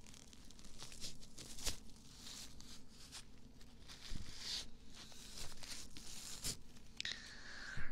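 Close, irregular scratching and scraping strokes with a few soft clicks, typical of ASMR ear cleaning on a microphone's ear. Near the end a faint tone slides slightly downward.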